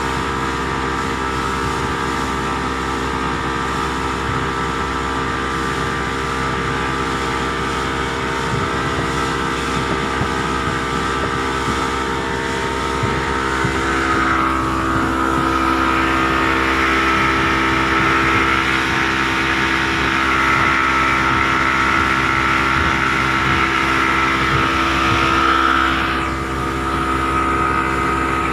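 A boat's engine running steadily with a constant hum. From about halfway through, a rushing hiss swells over it, then drops off sharply near the end.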